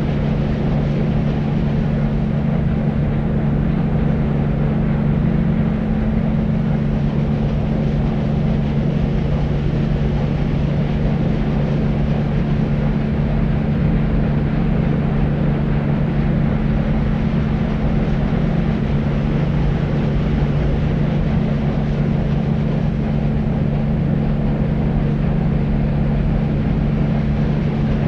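Steady deep noise for sleep: a constant low rumbling hiss with most of its weight in the bass and little treble, unchanging throughout.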